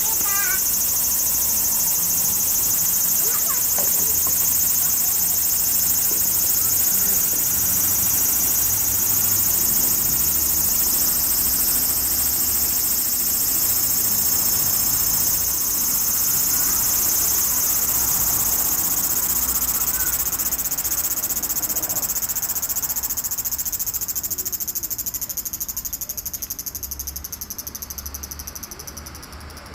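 Dense, steady, high-pitched chorus of insects shrilling, easing off over the last few seconds.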